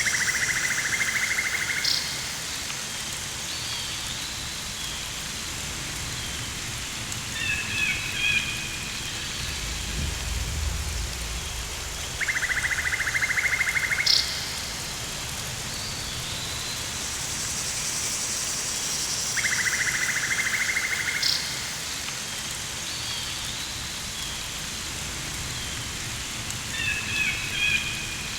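Rainforest ambience: a steady rain-like hiss, with a rapidly pulsed insect- or frog-like trill about two seconds long that recurs three times, each followed by a sharp high chirp. There are scattered bird-like chirps and a brief low rumble about ten seconds in.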